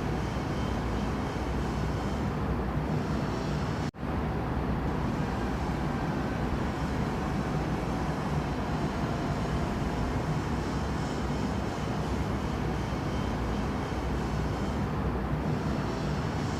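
Steady rumbling background noise that is strongest in the low end, cut off for an instant about four seconds in.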